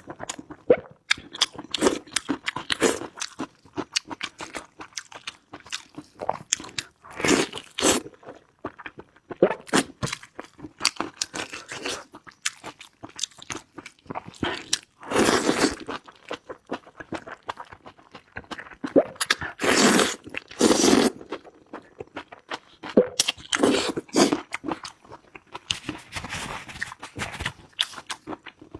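A person eating close to the microphone: crunchy bites and chewing in quick irregular clicks, with a few louder noisy stretches of about a second each.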